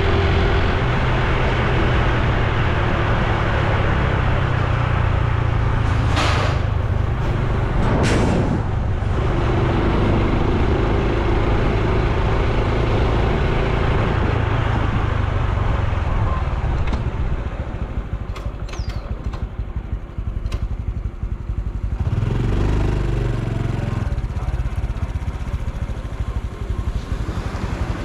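Honda Super Cub C125's single-cylinder four-stroke engine running under way, recorded with road and wind noise. Two brief whooshes come about six and eight seconds in. The ride quietens for a few seconds past the middle, then the engine note builds again as it pulls away.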